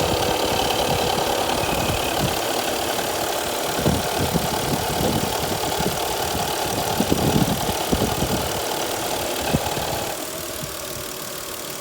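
Toyota Aristo's electric radiator cooling fan running with an abnormal rattling, knocking noise over the running engine, a fan the owner thinks is near the end of its life. About ten seconds in the sound drops noticeably quieter.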